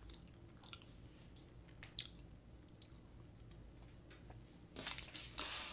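Faint chewing with soft mouth clicks, then a louder rustling noise near the end.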